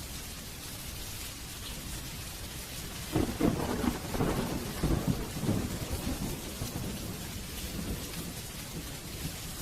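Steady rain hissing, with a thunderclap about three seconds in: a sudden crackling rumble that dies away over a few seconds.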